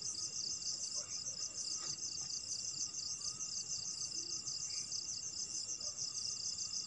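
Night insects chirping in a steady, high-pitched, rapidly pulsing chorus that doesn't let up.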